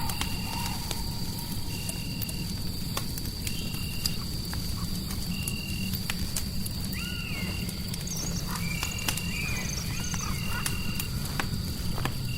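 Mixed ambience of a crackling fire over a steady low rumble of white noise, with an insect's short chirp repeating about once a second and a thin steady high tone. About seven seconds in, and again for a couple of seconds from about eight and a half seconds, wavering animal-like calls rise and fall.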